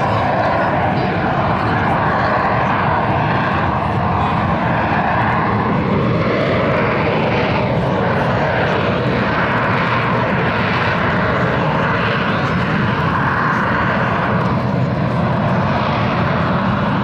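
Harrier jump jet's turbofan engine running loud and steady, with a faint tone rising slightly in pitch about five seconds in.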